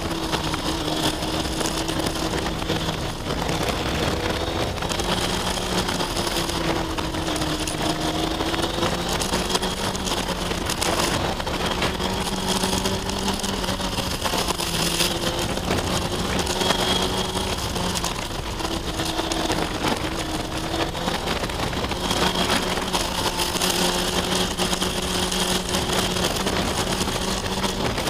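Kawasaki ZX-6R 636's inline-four engine running under way, its note rising and falling gently with the throttle through a run of bends, over a steady rush of wind and road noise.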